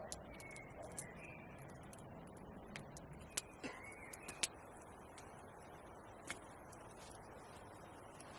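Scattered sharp clicks and crackles at irregular intervals over a steady low hiss, the loudest a little after three and four seconds in, with two faint short chirps.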